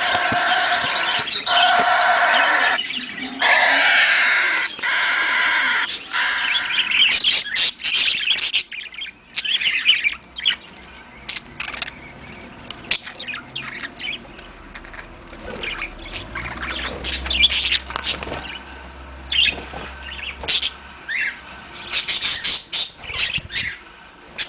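Pet budgies and cockatiel calling: a string of loud, harsh, drawn-out cries, each about a second long, for the first six or seven seconds, then scattered short chirps and tweets.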